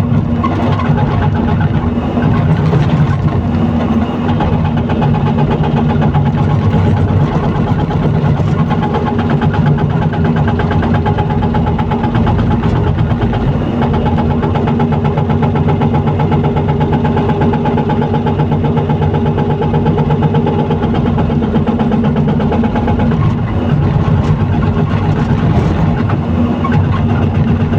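Excavator's diesel engine running steadily under load, with a constant low drone.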